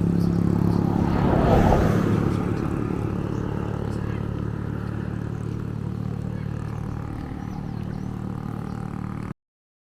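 Motor vehicle engine running at a steady speed, slowly fading, with a louder swell about a second and a half in; the sound cuts off suddenly near the end.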